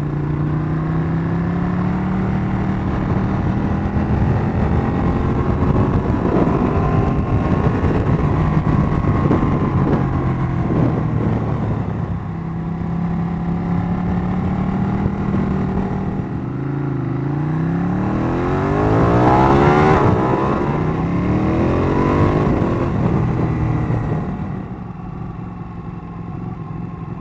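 Ducati Panigale V-twin engine on the move, rising and falling in pitch through gear changes, with a hard pull a little past halfway where the pitch climbs steeply through several gears before rolling off near the end. Wind rushes over the microphone throughout.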